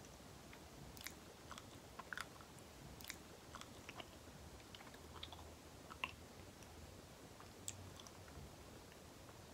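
Close-miked chewing of banana: faint, sticky, wet mouth clicks at irregular intervals, with a sharper click about six seconds in.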